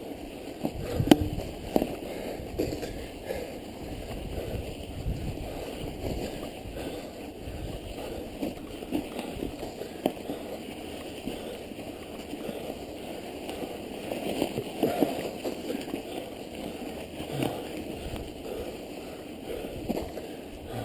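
Mountain bike being ridden through snow: a steady noise from the tyres and drivetrain, broken by scattered knocks and clicks from bumps, the sharpest about a second in.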